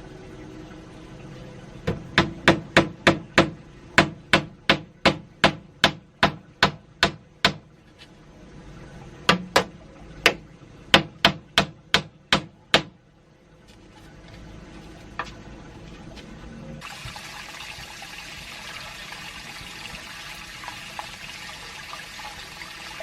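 Repeated sharp knocks, like hammering, about three blows a second in two runs separated by a short pause, followed by a steady hiss.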